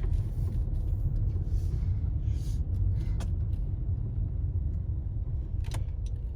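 Steady low rumble of street noise, with a few faint clicks about three and six seconds in.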